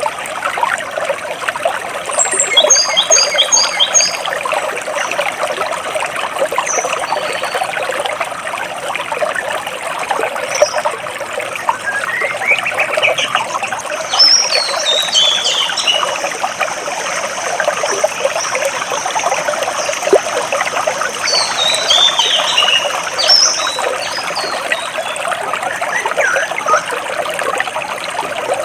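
Water flowing and trickling steadily between large rocks, with birds chirping over it: a quick run of high notes about two seconds in, and more chirps around the middle and again past the twenty-second mark.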